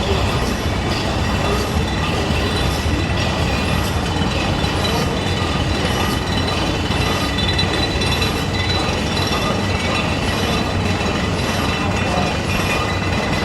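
Large slow-speed stationary engine running steadily, with an even, clanking mechanical beat a little faster than once a second over a constant rumble.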